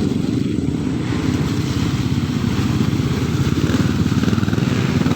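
Motocross motorcycle engines running steadily, a continuous low engine sound without clear revving.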